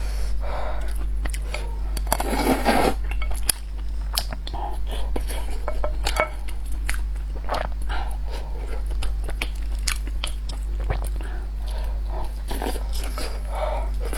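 Close-up eating sounds: a person biting and chewing mouthfuls of braised pork and rice, with many short wet clicks and smacks, over a steady low hum.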